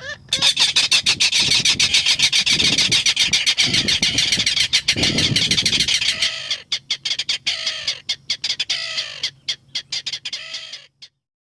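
Mangrove rail (saracura-matraca) giving a fast, harsh clattering series of calls, about six to seven notes a second. About six seconds in it slows into separate, spaced notes, and it stops shortly before the end.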